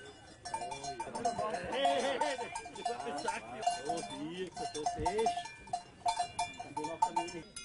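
Cowbells on a crowded herd of cattle clanking irregularly, with many short ringing strikes overlapping.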